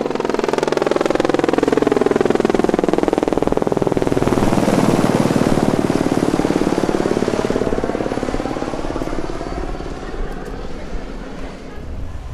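Aircraft passing low overhead with a rapid, pulsing engine drone. Its sound sweeps down to a low point about five seconds in and back up as it moves away, then fades.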